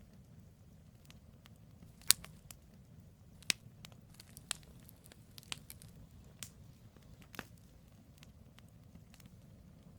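Firewood burning in a campfire: sharp pops and crackles scattered irregularly over the low, steady rumble of the flames, the loudest pops about two seconds and three and a half seconds in.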